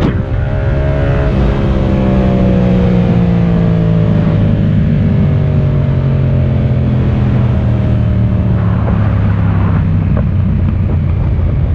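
Yamaha MT motorcycle engine running under way, its pitch falling slowly and steadily over several seconds as the bike slows on a closed throttle.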